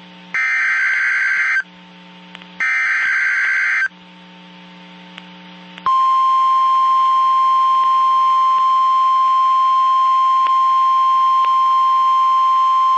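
Emergency Alert System header: two more bursts of warbling digital data tones, about a second each with short gaps. About six seconds in, the single steady warning tone of NOAA Weather Radio starts and holds, announcing the next severe thunderstorm warning.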